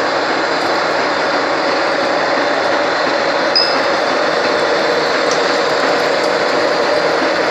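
Machine tool running steadily with a loud, even mechanical noise and a steady hum, and a brief high squeak about three and a half seconds in.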